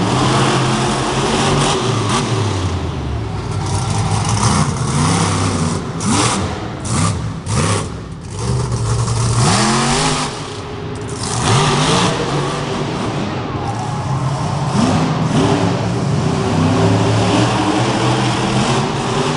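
Monster truck engine revving hard over and over, its pitch sweeping up and dropping back with each throttle stab, with a few short sharp noises in the middle.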